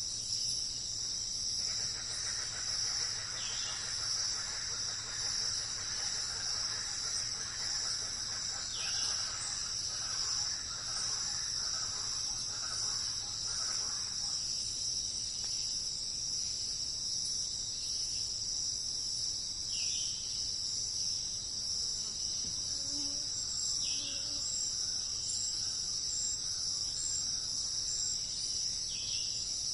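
Steady high-pitched chorus of insects trilling in woodland, with a few short bird calls every few seconds.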